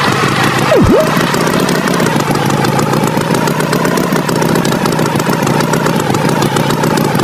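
Tractor engine sound effect running steadily, with a quick swooping tone that dips sharply and comes straight back up about a second in.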